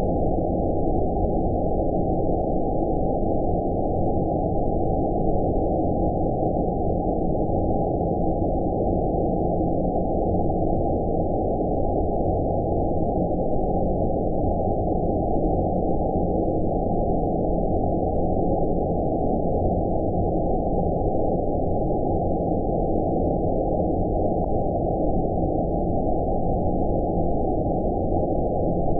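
Steady, deep synthetic 'space' sleep noise: white noise with everything above about 1 kHz cut off, leaving a low, dull, unchanging hiss.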